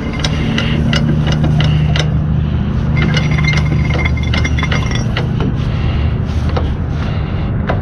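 Cargo strap being wound up on a hand-cranked strap winder, with quick irregular metallic clinks and rattles from the winder and strap hardware, over a steady low engine hum.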